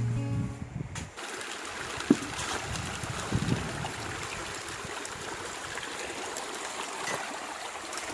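Background music cutting off about a second in, then a river running steadily, with a few faint knocks.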